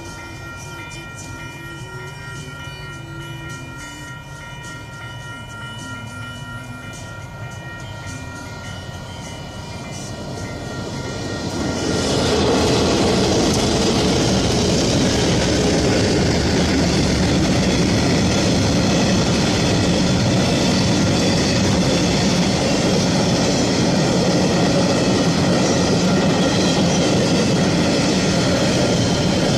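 Level crossing warning bells ringing steadily, then about twelve seconds in a train reaches the crossing and passes loudly, its wheels running over the rails.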